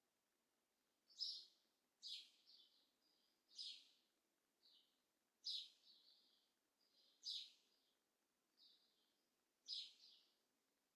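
A bird chirping faintly and repeatedly: short, sharp, high chirps about every one to two seconds, some with a softer trailing note.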